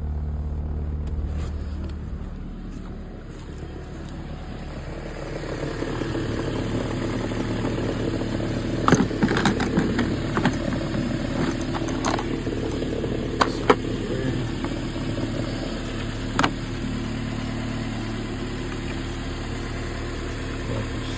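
Car engine idling steadily, fitted with a 320-amp high-output alternator whose voltage is being set at about 14.8 to 14.9 volts. It is duller at first and fuller from about five seconds in, with a few sharp clicks of handling between about nine and seventeen seconds.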